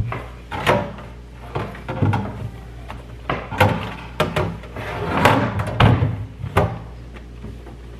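Kitchen handling sounds: a run of short knocks, clatter and sliding scrapes as things are put away at the sink, the loudest a little past halfway, then easing off near the end.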